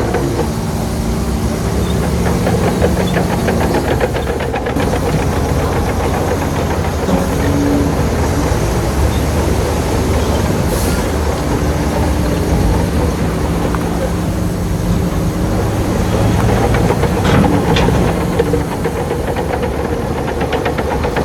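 Diesel engine of heavy earthmoving machinery running under changing load, its pitch shifting up and down several times, over a rapid metallic clatter.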